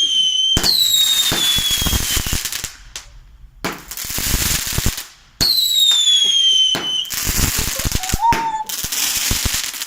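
A 19-shot firework cake firing off its shots. Two of the shots trail a falling whistle, and between them come dense, rapid crackling bursts, with a short lull partway through.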